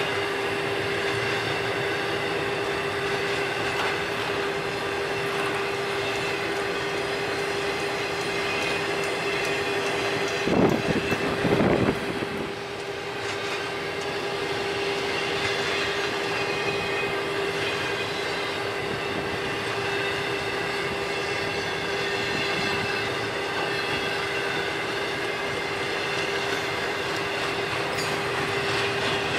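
Union Pacific intermodal freight cars rolling steadily past, steel wheels running on the rail with a steady whining tone over the rumble. Two loud, low rushes come about ten and eleven seconds in.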